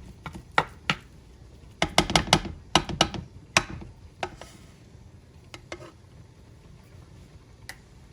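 A utensil knocking and scraping against a pan as ground turkey is broken up: sharp clacks, thick in the first four seconds, then only a few scattered ones.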